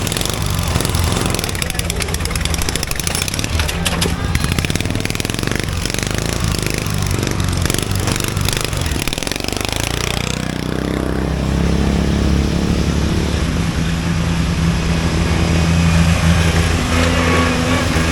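Small riding lawn mower engines running at race speed. About nine to ten seconds in, one engine's pitch drops quickly, then settles into a steady run.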